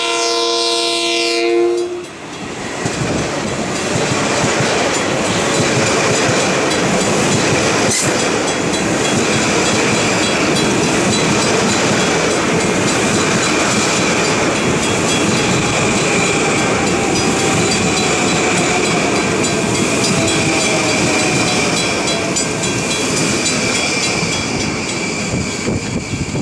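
Long Island Rail Road M9 electric commuter train sounding its horn, a chord of several notes that stops about two seconds in. The train then passes close by with a loud, steady rumble of wheels on the rails.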